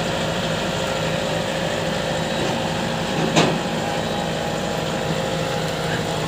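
Tractor engine running steadily, with one sharp knock about three and a half seconds in.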